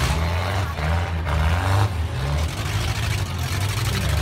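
Four-cylinder demolition derby car engines running and revving unevenly, a low rumble that shifts in pitch.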